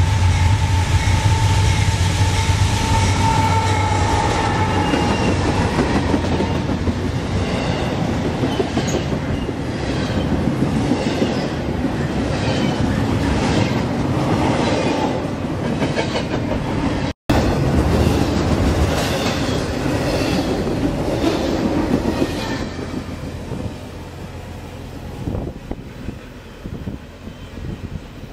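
Diesel freight locomotive passing close with its engine running, then double-stack intermodal cars rolling by with a rhythmic clickety-clack of wheels over the rail joints. After a brief cut, the train's noise fades away as it recedes.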